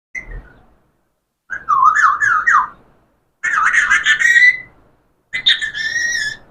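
Talking parrot whistling: a short chirp, then three warbling whistles of about a second each, the first quickly wavering up and down, the last two held steadier.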